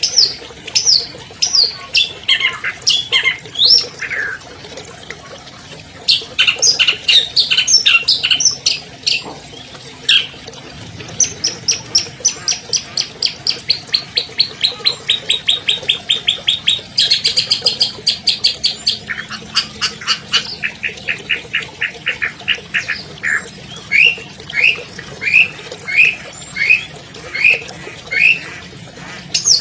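Long-tailed shrike (cendet) singing a long, varied song: sharp down-slurred whistles, then fast dense note clusters, two long rapid trills in the middle, and evenly repeated single notes near the end.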